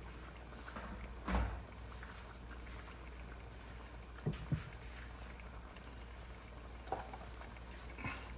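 Pot of chicken curry cooking quietly after a cup of water has gone in, with a few short knocks against the pot, the loudest about a second and a half in and a quick pair near the middle.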